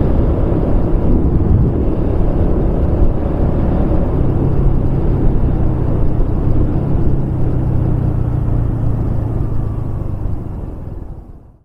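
Kawasaki Estrella's single-cylinder engine running while the motorcycle rides along, with wind and road noise over a steady low engine note. The sound fades out near the end.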